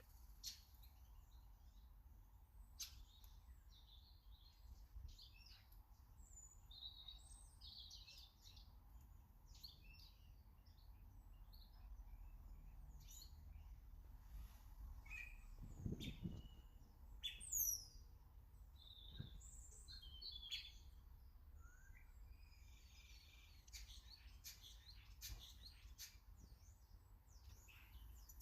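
Faint chirps and short calls of several small garden birds, scattered throughout, with a brighter call sliding downward in pitch about 17 seconds in. A low thud comes shortly before it.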